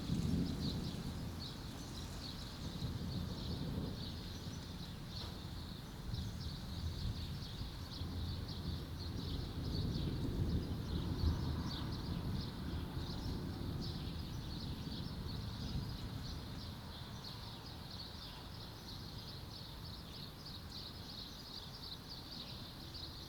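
Distant thunder rumbling low in slow swells that fade, over a steady chatter of small birds chirping quickly and continuously.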